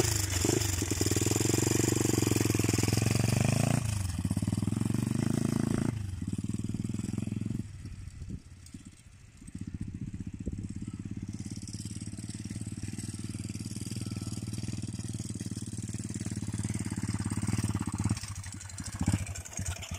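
125 cc pitbike's single-cylinder four-stroke engine running under throttle. It is loudest for the first few seconds, drops off briefly about eight seconds in, then runs steadily and falls away near the end.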